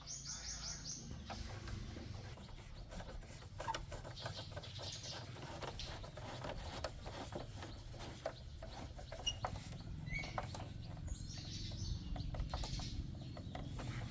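Scattered light clicks and clinks of small metal parts and hand tools being handled, with bird calls in the background, including a quick high trill right at the start.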